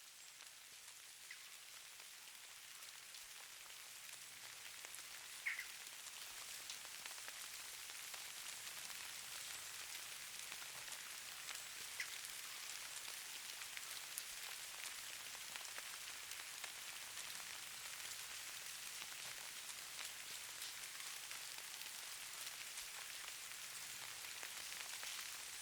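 Steady fine patter and hiss of precipitation falling on surfaces, with scattered tiny ticks of individual drops or flakes, fading in over the first few seconds. A short high chirp stands out about five and a half seconds in.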